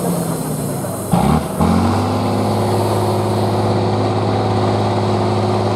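Competition trial truck's engine running under load; about a second in its note drops sharply and climbs back, then it runs steadily.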